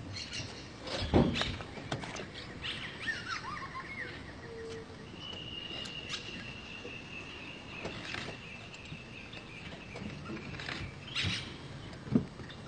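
Wild birds calling: a short falling call about three seconds in and a long, steady high note through the middle, over a steady background hiss. A few sharp cracks or knocks, the loudest about a second in.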